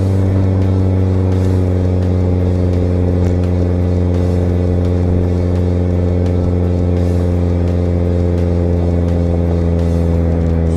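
2013 Toyota Corolla's four-cylinder engine running through an aftermarket Borla exhaust, with a loud, steady exhaust note whose pitch barely changes.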